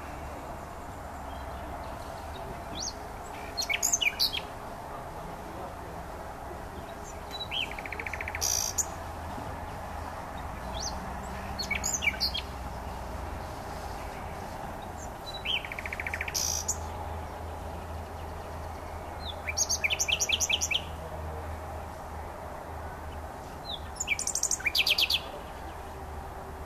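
Nightingale singing in short separate phrases about every four seconds, several of them rapid trills of repeated high notes, over a steady low background hum.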